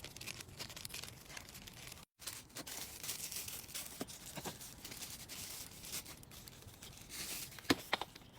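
Faint crackling, rustling noise with a few sharp clicks, cutting out completely for a moment about two seconds in.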